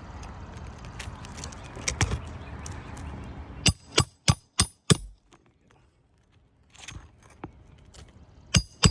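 Hammer striking a metal roof snake under asphalt shingles to cut the nails: five quick sharp blows about a third of a second apart, then two more near the end, each with a short metallic ring. Rustling comes before the blows.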